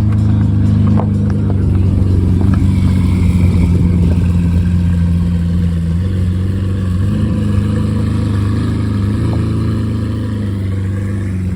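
Car engine running steadily at idle, loud, its pitch wavering slightly about seven seconds in.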